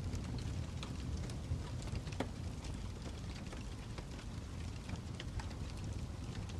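Fire crackling: a steady low rumble with scattered sharp pops and snaps at irregular intervals.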